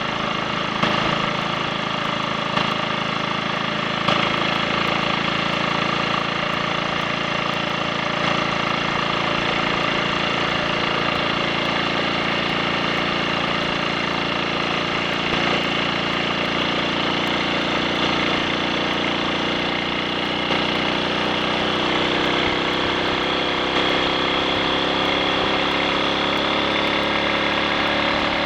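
Triumph Sports Cub's single-cylinder four-stroke engine running steadily on the road, with its note climbing over the last several seconds as it speeds up. It runs without misfiring or cutting out, the rust-clogged main jet having been cleared.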